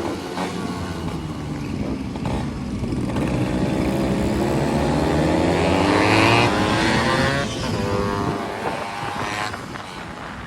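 Motorcycle engines running under way. One engine revs up, rising in pitch about four to six seconds in, then drops away and fades near the end.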